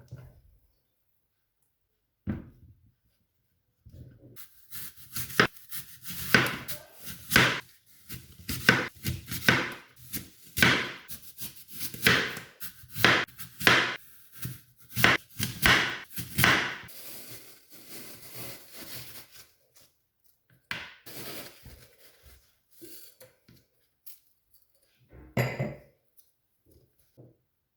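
Kitchen food-preparation noise: a run of sharp knocks and scrapes, about one or two a second, for roughly a dozen seconds, then a few scattered knocks near the end.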